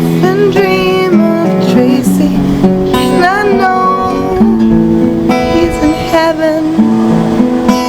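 Acoustic guitar playing the chords of a slow ballad, with a melody line above it that slides and bends in pitch.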